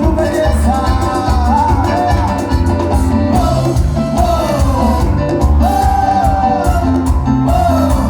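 Band playing cuarteto music, a singer's voice over a steady bouncing bass beat.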